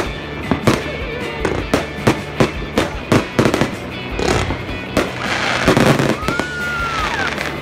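Aerial fireworks going off: a string of sharp bangs, then a dense crackling spell about five seconds in, and a whistling firework that glides up and then down in pitch near the end. Music plays underneath.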